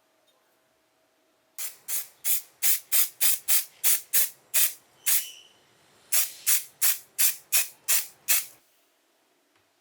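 A hand trigger spray bottle squirting in quick short bursts, about three a second, in two runs with a pause of about a second between them, during cleaning of rusted bench grinder parts.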